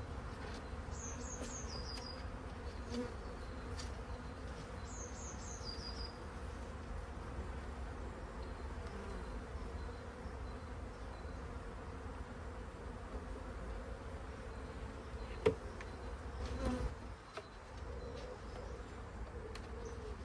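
Honeybees from an opened, crowded colony buzzing steadily as their frames are handled. A sharp click comes about fifteen seconds in, with a knock a moment later.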